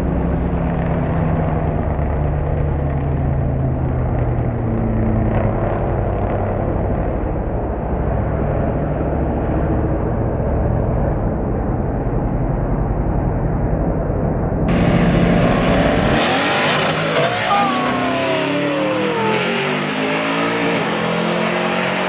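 Engine of a big-wheeled Chevrolet Monte Carlo SS drag car, its pitch slowly falling after it has thrown both rear wheels at the launch and dropped onto its hubs. About two-thirds of the way through, the sound abruptly turns brighter and loses its low end, with gliding rising and falling tones.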